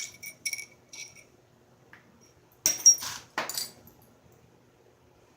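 Flintknapping: an antler billet tapping and striking a stone piece. There are a few light taps with a glassy ring, then about three sharper strikes near the middle as a flake is driven off.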